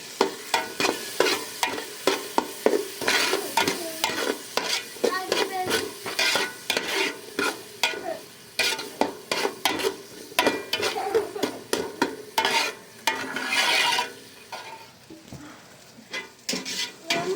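A metal utensil scraping and knocking against a cooking pot as food is stirred, several irregular strikes a second, some ringing briefly, over a frying sizzle. It eases off for a few seconds near the end.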